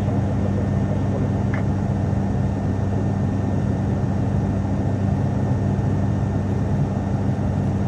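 Cabin drone of an ATR turboprop airliner in cruise: a steady engine and propeller hum with two constant low tones over the rush of air.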